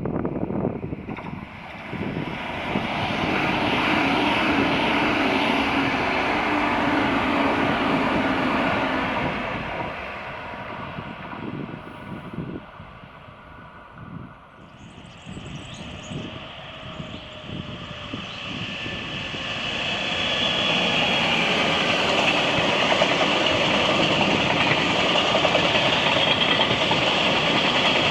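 Trains passing on the line: a loud rolling rumble with a low steady engine tone builds, eases off about ten seconds in, then swells again and holds through the second half.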